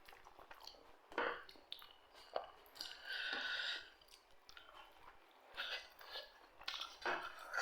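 Close-miked chewing and biting of food, with irregular crunches: a sharp bite about a second in and a longer crunching stretch around three seconds in.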